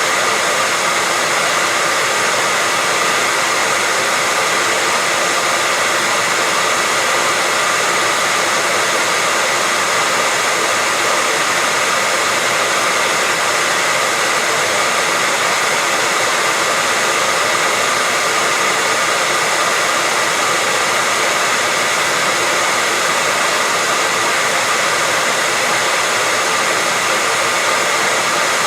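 Hair dryer running steadily, a continuous even whoosh of blown air with a faint steady whine from its fan motor, played as white noise to lull a baby to sleep.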